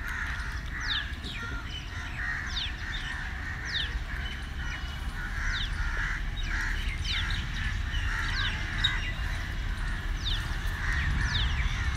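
Birds calling in the background: many short, high, falling chirps scattered irregularly, with harsher calls lower down, over a steady low rumble.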